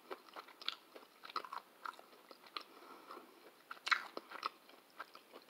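A person chewing a mouthful of pepperoni pizza close to the microphone: scattered small wet clicks and crunches, a little louder about four seconds in.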